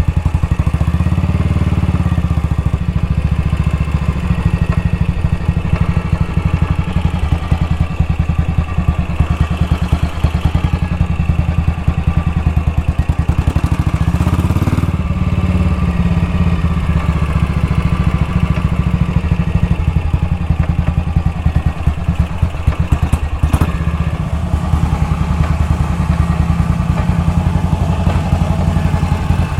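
BSA Gold Star DB34's 500 cc single-cylinder engine running steadily. A chattering is heard from the primary side, which the owners suspect comes from the clutch.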